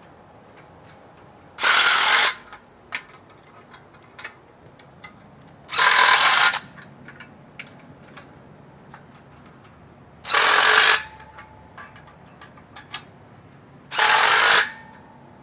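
Power driver run in four short bursts about four seconds apart, tightening nuts onto the bolts of a power rack being assembled.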